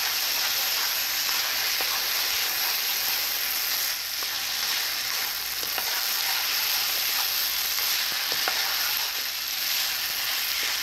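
Fried rice in brown sauce sizzling in a hot nonstick pan while it is stirred with a spatula: a steady frying hiss with a few light spatula taps and scrapes.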